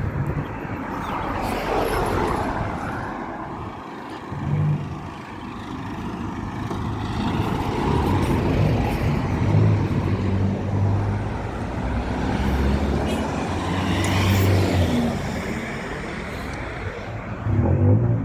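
A motor vehicle engine running close by, with low engine hum and road noise that swell and fade over several seconds.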